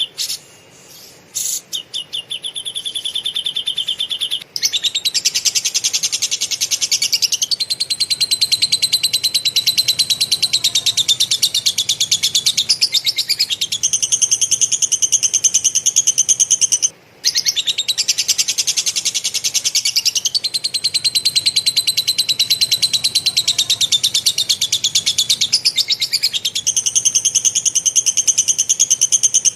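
Cage songbird giving long bouts of very rapid, harsh chattering song, the dense rapid-fire 'tembakan' material used to train other songbirds. The chatter switches between a lower and a higher pitch every few seconds, with brief pauses near the start and about halfway.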